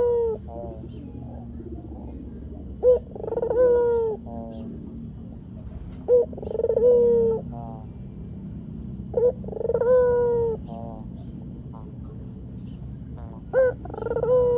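White Barbary dove (puter putih) cooing in repeated phrases, about one every three to four seconds. Each phrase is a short sharp note, then a long coo that drops in pitch at the end, then a quick rolling trill.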